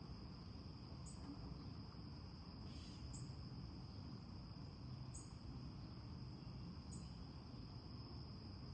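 Faint nature-sound backdrop of insects: a steady high trill, with a short, higher chirp about every two seconds.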